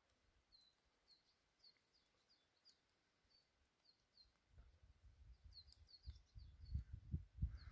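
Faint, short, high chirps of a small bird, repeated every half second or so against near silence. From about halfway in, low rumbles and bumps grow louder toward the end.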